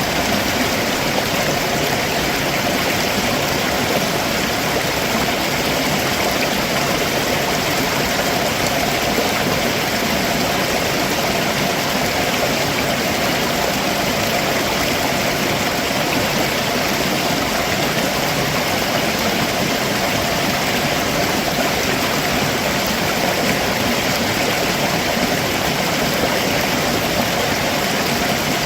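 Stream water rushing and splashing over rocks below a waterfall, a steady unbroken rush.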